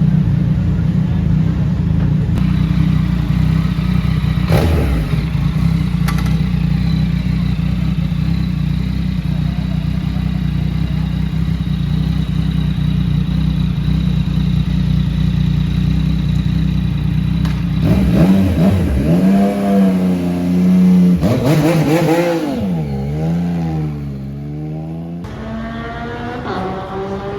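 Sport motorcycle engines: a steady, loud engine drone for most of the time, then a bike revving with its pitch swinging up and down several times, and near the end one accelerating away with a rising pitch.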